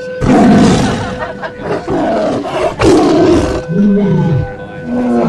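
A large animal calling loudly several times: three rough, noisy calls of about a second each, then a shorter call that rises and falls in pitch, and another just before the end.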